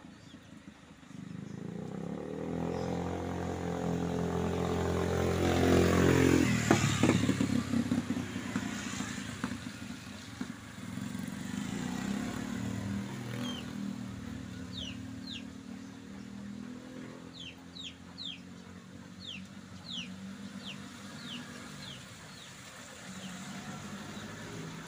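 A motor vehicle's engine approaching, loudest as it passes about six to seven seconds in, then fading to a lower running sound. Later, about a dozen short, high chirps come one after another.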